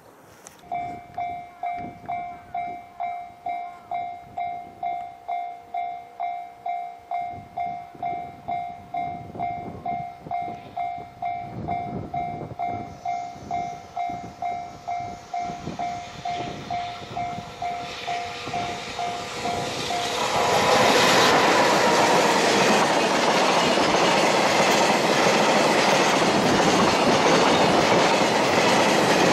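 Level-crossing warning bell ringing in a steady pulse about twice a second, then a train passing at speed, loud and close, from about two thirds of the way in, with wheels clacking over the rail joints and drowning out the bell.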